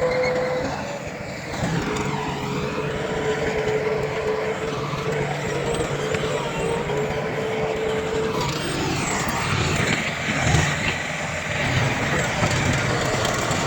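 Heavy earthmoving machinery running steadily, with a held whine through most of the first eight seconds and a short louder surge near the end.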